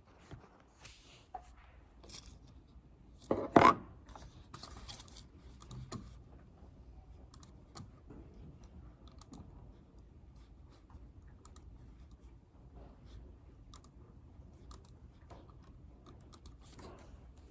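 Computer keyboard typing: scattered key clicks at an uneven pace over a faint low room hum, with one much louder knock about three and a half seconds in.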